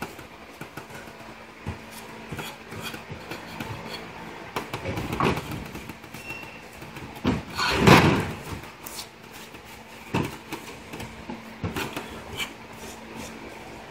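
Scattered clicks and knocks of motor parts and tools being handled on a bench, loudest about five and eight seconds in, over a faint steady hum.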